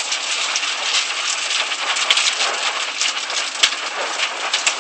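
Heavy rain mixed with hail pelting down: a steady hiss packed with sharp ticks of hailstones striking hard surfaces, with one louder crack a little past halfway.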